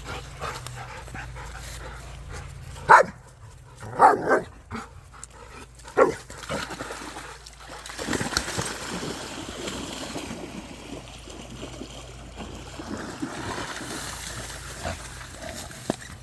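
A dog barks four times in short, loud calls, one of them a quick double bark. A steady hiss of noise follows.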